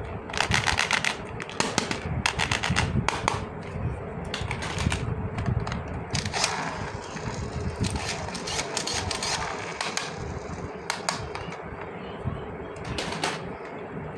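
Small plastic toy pieces being handled, with quick clusters of clicks and taps in bursts, and a softer rustling stretch in the middle.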